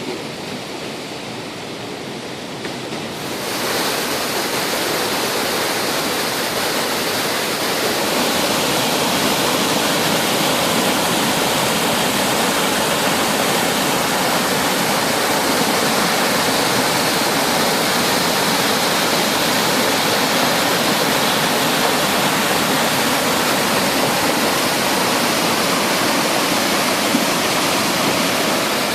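A rain-swollen stream rushing in full spate, a steady roar of water that gets louder and brighter about three seconds in.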